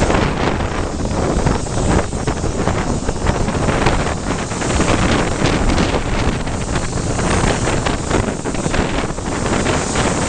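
Wind buffeting the microphone over the running noise of a moving train, a loud, steady rush.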